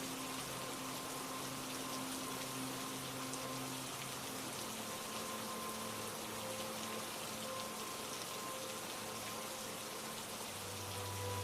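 Steady rain falling. Underneath it, soft held low musical tones change pitch about four and a half seconds in and again near the end.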